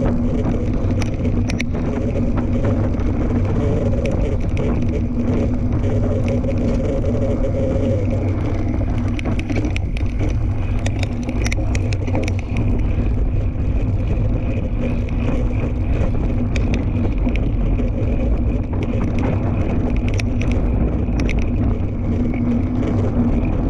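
Fat-tire tandem bike riding along a dirt trail: tyres rolling and wind rushing over the microphone, with a steady hum and scattered clicks and rattles from the bike.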